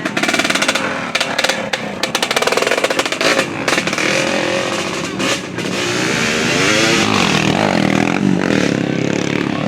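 Motocross dirt bike engines revving up and down, with a rapid crackling rattle in the first few seconds and a steadier, smoother run later.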